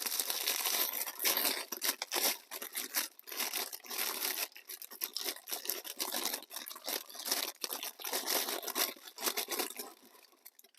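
Plastic packaging crinkling and tearing in dense, irregular crackles as an inner bag is pulled out of an outer bag and opened by hand, thinning out near the end.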